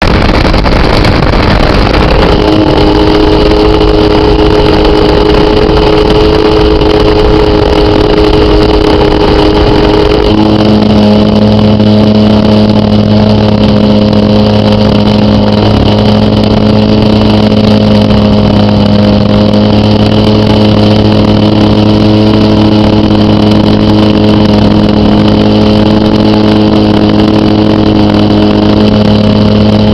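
A .46-size model airplane engine on an RC Extra 300S running steadily at high rpm. It drops to a lower, steady note about ten seconds in and holds it.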